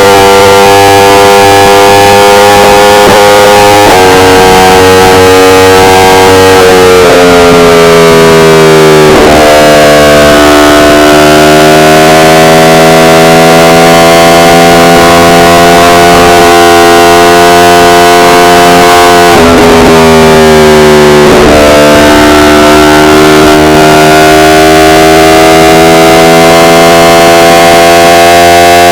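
Yamaha R1's inline-four engine running at steady revs while riding, its pitch sliding down twice and climbing back as speed picks up. The recording is loud and distorted.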